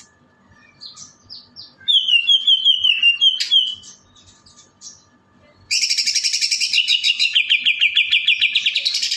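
A caged songbird singing: a quick run of falling chirps about two seconds in, then after a pause a long, fast, evenly repeated trill that lasts over three seconds. This long unbroken trill is the 'long' song the keeper was asking for.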